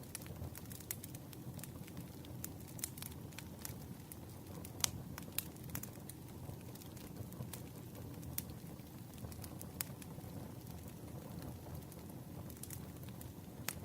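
Campfire burning: a steady low rush with irregular sharp pops and crackles, one louder pop about five seconds in.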